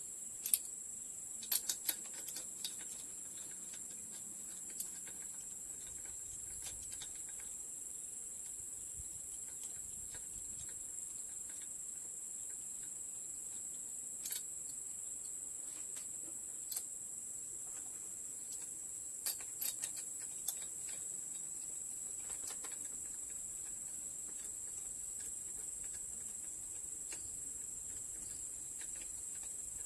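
Steady high-pitched chirring of crickets or similar insects, with scattered sharp clicks and clinks: a quick cluster in the first two seconds and a few more about halfway through.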